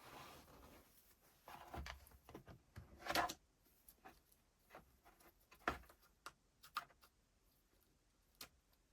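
Irregular light clicks and taps of small parts being handled, about a dozen over several seconds, the loudest about three seconds in, with a soft rustle at the start.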